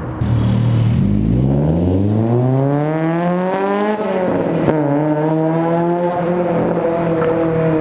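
Acura RSX Type S's 2.0-litre K20 four-cylinder, with an aftermarket header and cat-back exhaust, accelerating: the exhaust note climbs in pitch for about three seconds, drops sharply at a gear change about four seconds in, then climbs again and levels off.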